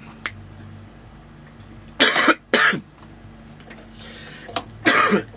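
A person coughing: two sharp coughs in quick succession about two seconds in, and a third near the end.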